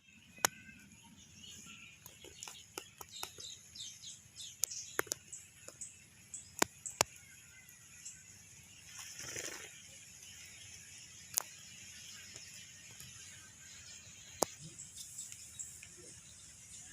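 Small birds chirping in short high calls, with a number of sharp clicks scattered through and a brief rustle about halfway.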